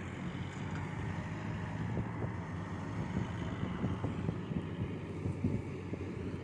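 Rice combine harvester's diesel engine running at a steady drone, with wind on the microphone.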